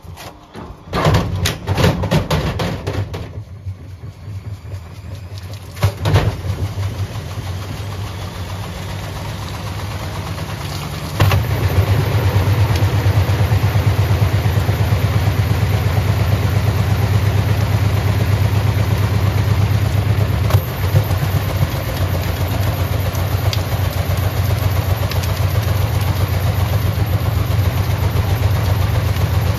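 Bosch washing machine running: a few clunks and knocks at first, then about eleven seconds in the motor steps up to a louder, steady drum run with a fast, even low pulse.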